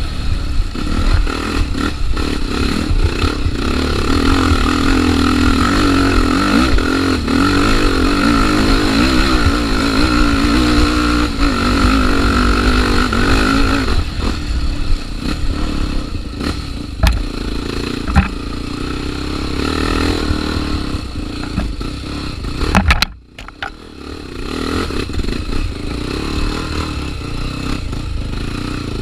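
Single-cylinder Honda Tornado trail motorcycle engine running under load on a climb, its note wavering with the throttle. About halfway through the sound changes, and about three-quarters of the way through it drops out briefly before picking up again.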